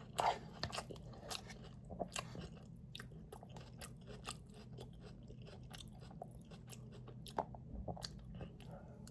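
A person chewing a mouthful of food close to the microphone: faint, irregular soft clicks and smacks of the mouth, a little louder at the start.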